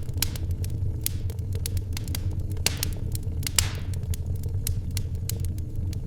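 Wood fire crackling in a fireplace: irregular sharp snaps and pops over a steady low rumble, with one louder pop and a short hiss just past the middle.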